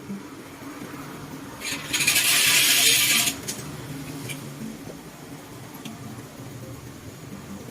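A loud hiss lasting about a second and a half, about two seconds in, with a few light metallic clinks around it.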